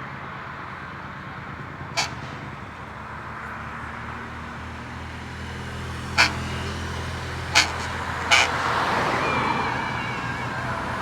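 Heavy truck engines running steadily, with four short, sharp bursts spaced out over the stretch, and the noise building towards the end.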